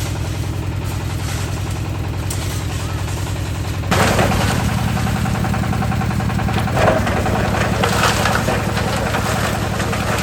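Concrete mixer's engine running steadily. About four seconds in it gets louder, and a rattling clatter joins it.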